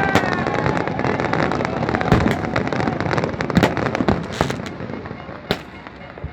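Fireworks going off: a dense, rapid run of crackling cracks and bangs that thins out and grows fainter toward the end, leaving a few separate pops.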